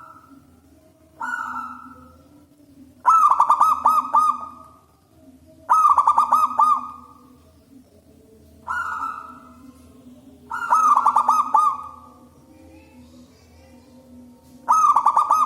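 Zebra dove (perkutut) cooing: six calls a few seconds apart, some a single short coo and some a longer rapidly stuttering run of coos, over a faint steady low hum.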